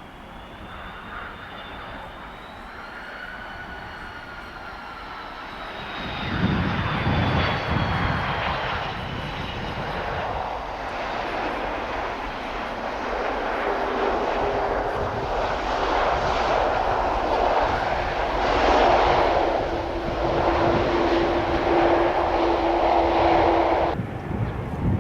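Jet airliner's engines on landing approach: a high fan whine that slowly falls in pitch, then a growing rush of engine noise with a steady hum, louder toward the end, stopping abruptly near the end.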